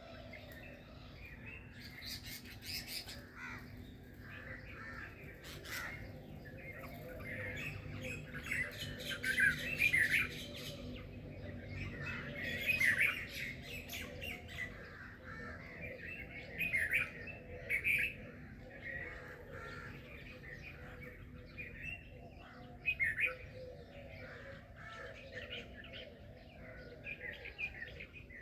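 Several birds chirping and calling over one another in a continuous morning chorus, with louder bursts of calls about a third of the way in, near the middle and again later on.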